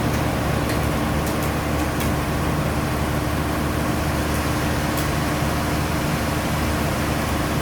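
Sawmill machinery running steadily: a low, even engine drone with a few faint clicks.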